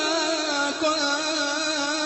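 A voice chanting Quran recitation in melodic tajweed style, drawing one syllable out into a long, gently wavering held note.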